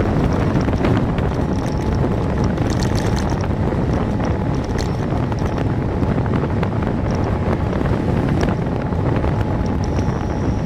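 Wind rushing over the microphone while riding a bicycle: a steady, loud low rumble with road noise beneath and scattered faint ticks.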